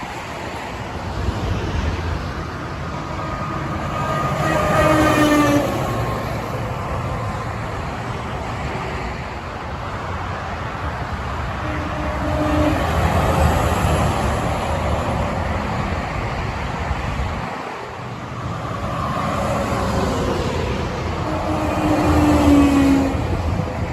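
Heavy road traffic: trucks passing one after another with engine and tyre noise, the pitch of each falling as it goes by, loudest about five seconds in and again near the end.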